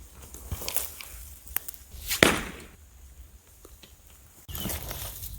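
Twigs and branches snapping and brush rustling as people push through thick undergrowth on foot, with one sharp loud snap about two seconds in and a denser rustle near the end.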